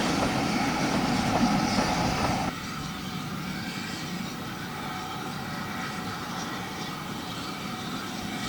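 Steam-hauled train of SR U Class 2-6-0 No 31806 rumbling along the track, which stops abruptly about two and a half seconds in. A quieter steady outdoor background noise follows.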